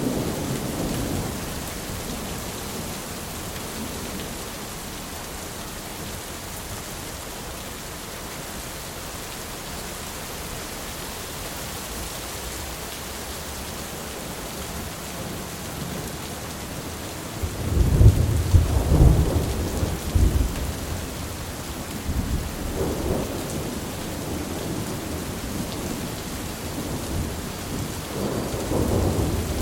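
Steady heavy rain with thunder. A rumble fades in the first couple of seconds; a loud peal of thunder comes a little past halfway and rolls for about three seconds, with a smaller rumble shortly after and more thunder building near the end.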